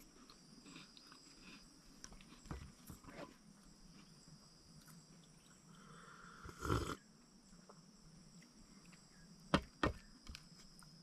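Steady high-pitched chirring of forest insects, with a few scattered knocks and handling noises: one louder dull thump just before seven seconds in and two sharp knocks about two and a half seconds later.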